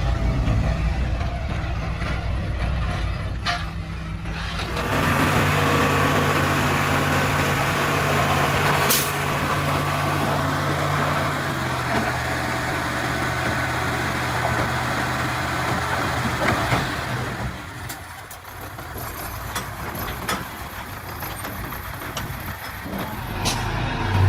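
Heavy diesel engine of earthmoving machinery running steadily, its pitch shifting as the load changes, with a short hiss about nine seconds in.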